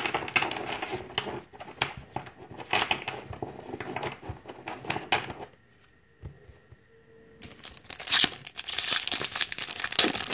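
Foil Pokémon trading-card booster pack crinkling and being torn open by hand, with a quiet pause of about two seconds midway.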